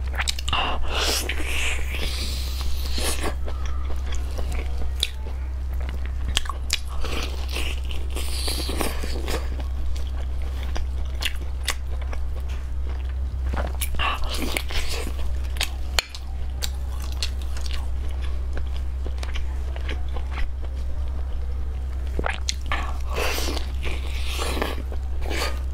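A person biting into and chewing soft, sauce-coated meat close to the microphone, with wet mouth sounds coming in spells every few seconds over a steady low hum.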